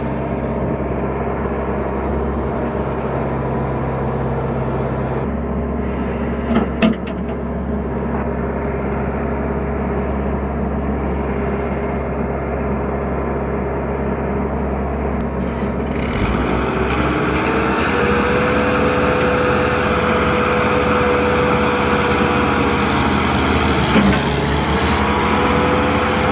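Tractor engine running hard under load, a steady diesel note, as it works to pull free of deep mud. About two-thirds of the way through the sound gets louder and brighter, with a held whine that rises and falls, and there are a couple of brief knocks.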